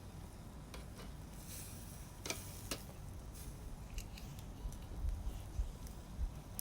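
Wood fire crackling, with scattered sharp pops and clicks at irregular moments over a light hiss. A few low rumbles come in near the end.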